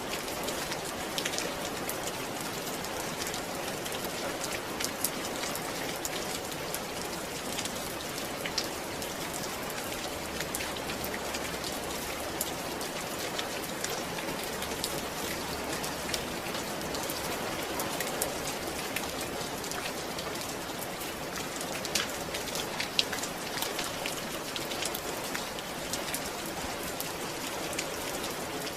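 Steady rain falling, an even hiss with many individual drops ticking on a surface, a few sharper drop hits about two-thirds of the way through.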